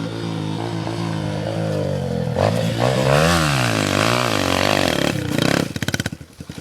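Yamaha 125cc dirt bike engine under hard throttle on a steep climb, its revs rising and falling repeatedly. Near the end the engine drops to a slow, uneven putter of quick pulses.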